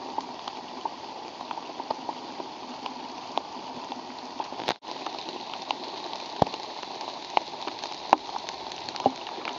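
Steady rain falling, with irregular sharp drops tapping close by. The sound cuts out for an instant about halfway.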